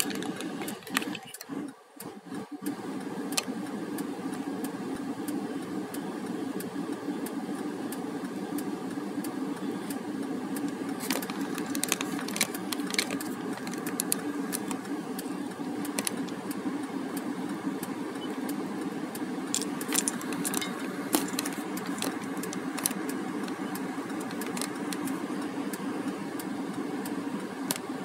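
Car engine idling, a steady hum, with scattered light clicks and rattles. The hum drops out in short gaps during the first couple of seconds, then runs evenly.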